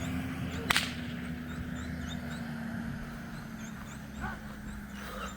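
A single sharp crack about a second in, over a steady low drone that sinks slightly in pitch, with faint high chirps throughout.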